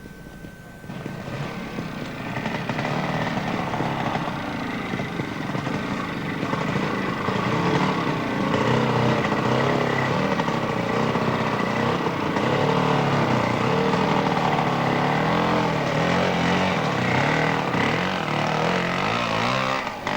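Trials sidecar outfit's engine revving hard as it climbs the section, the pitch rising and falling as the throttle is worked. It comes in about a second in and grows louder.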